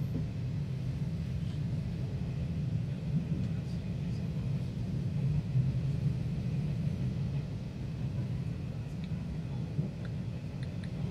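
Steady low rumble of a passenger train running along the track, heard from inside the passenger car.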